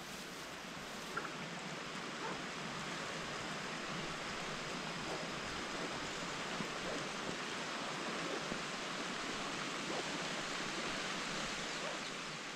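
Heavy rain falling steadily: an even hiss with a few scattered louder drops.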